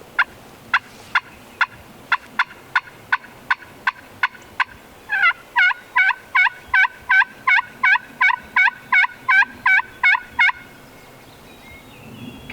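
Hand-operated turkey call sounding a series of hen yelps to try to draw a gobble from a tom. It gives a string of short, sharp notes, then from about five seconds in a louder, faster run of yelps at about three a second, which stops about ten seconds in.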